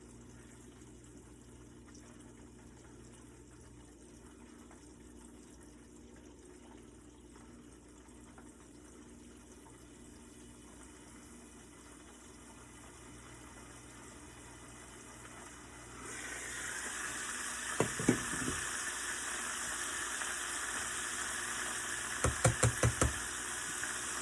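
Party wings deep-frying in hot grease: a faint steady frying noise with a low hum, then about two-thirds of the way in the sizzle suddenly gets much louder. A couple of knocks, and near the end a quick run of about five taps.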